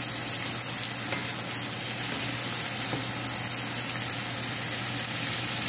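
Chopped onion, tomato and green chili sizzling steadily in butter in a hot skillet, stirred with a wooden spatula.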